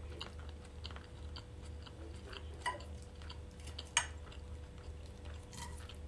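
Close-up chewing of a mouthful of pan-fried octopus tentacle and salad, with small wet mouth clicks throughout and two sharper clicks, about halfway through and again a little later. A low steady hum sits under it.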